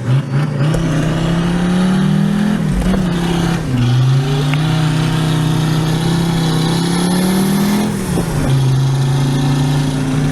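Turbocharged OM602 five-cylinder diesel of a Mercedes-Benz W124 250D pulling the car through the gears. The engine note climbs and then drops at gear changes about three seconds and eight seconds in. The exhaust has no silencer fitted.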